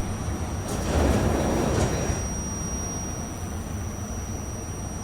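An R68A subway car's sliding doors opening at a station stop: a rush of noise lasting about a second, then the steady hum of the stopped car.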